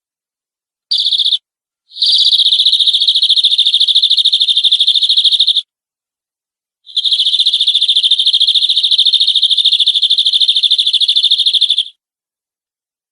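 Domestic canary singing fast rolling trills held at one high pitch: a short burst about a second in, then two long trills of three to five seconds each, with sudden starts and stops and dead silence between.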